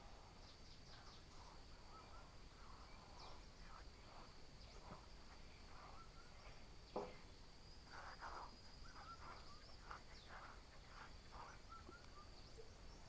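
Faint outdoor ambience: a steady high insect drone with scattered short bird chirps, and a single sharp knock about seven seconds in.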